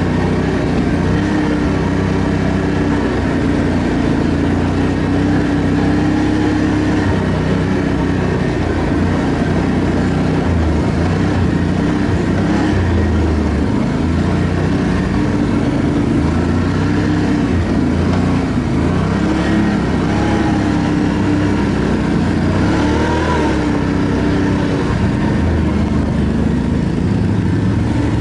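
ATV engine running under way on a dirt trail, loud and continuous, its pitch rising and falling a little with the throttle.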